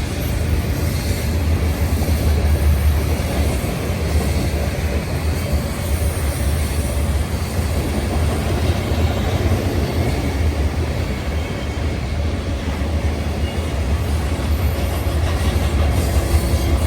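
A passing train rumbling steadily along the track, its cars rolling by on the rails.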